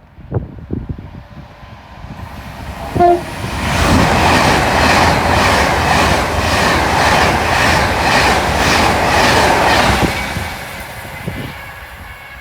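A train sounds a short horn blast about three seconds in, then passes close at speed. It makes a loud rushing noise with a regular clatter of wheels about twice a second, which fades away near the end.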